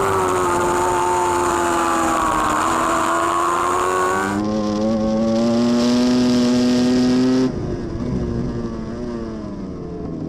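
A racing superbike engine heard from onboard, running at high revs with its pitch sagging slowly. About four seconds in, a cut brings a note that climbs steadily under acceleration. About seven seconds in, another cut drops to a quieter, lower engine note.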